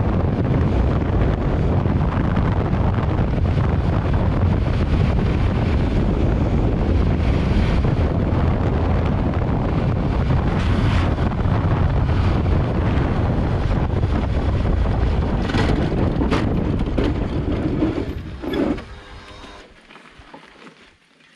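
Loud, steady rush of wind buffeting the microphone, dying away about eighteen seconds in.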